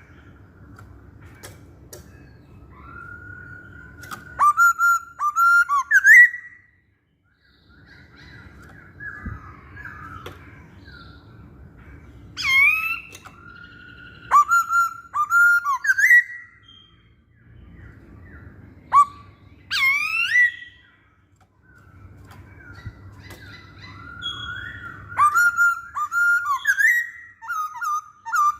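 Masked laughingthrush (poksay Hongkong) singing: loud whistled phrases with quick upward-sweeping notes and harsh chatter, in four bouts separated by short pauses.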